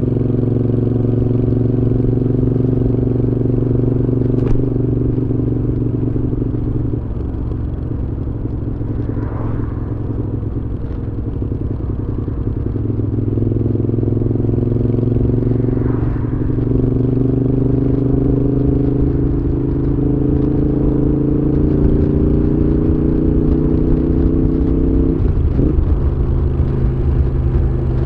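Moto Guzzi V7's air-cooled transverse V-twin running through a Mistral exhaust while riding. The engine note eases off a little, then climbs slowly for several seconds and drops abruptly near the end.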